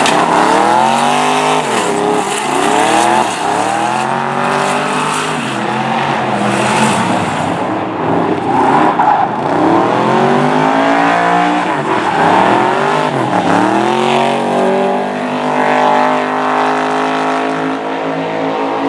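LSX 454 V8 of a drift-built BMW E36 M3, revving hard during a drift, its pitch climbing and dropping every couple of seconds, with tyre squeal underneath. For the last few seconds it holds a steady high rev.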